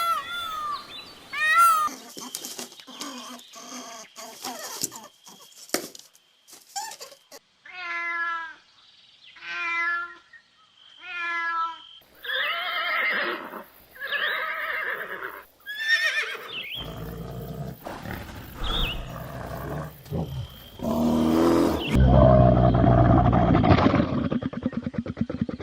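A run of different animal calls, one after another. Near the middle come three short pitched calls evenly spaced about a second and a half apart, followed by rougher, louder, low calls toward the end.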